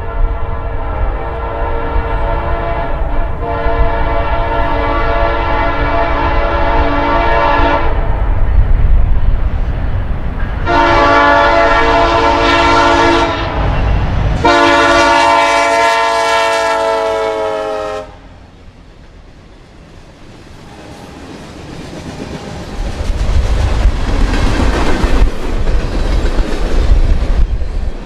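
Locomotive air horn sounding a chord in three long blasts over the low rumble and wheel clatter of a passing train: the first is already sounding and ends about eight seconds in, then two more of a few seconds each. The sound then drops off sharply, and the rumble of a train on the rails builds up again near the end.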